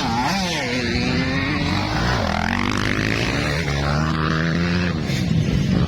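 Motocross dirt bike engines revving, the pitch falling and then rising again as the throttle is worked.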